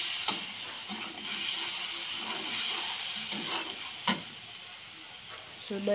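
Blended spice paste sizzling in hot oil in a wok as it is stirred and pushed around with a slotted spatula, sautéed at the first stage of cooking opor. Twice the spatula clicks sharply against the pan, once near the start and once about four seconds in.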